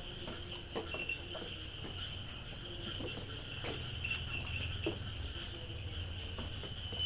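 Insects chirring steadily in the background at a high, even pitch, over a low hum, with a few light clicks and taps scattered through.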